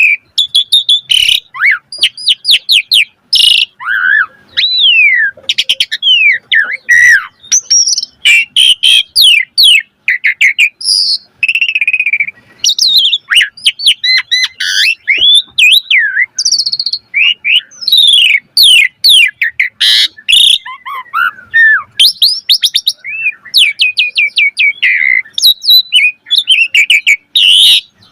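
Asian pied myna (jalak suren) singing a long, varied song without pause: slurred whistles that rise and fall, rapid chattering runs of repeated notes, and sharp clicks.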